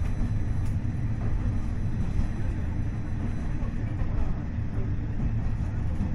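KiHa 40 diesel railcar running, heard from inside the cabin: a steady low rumble of its DMF15HSA diesel engine and wheels rolling on the rails.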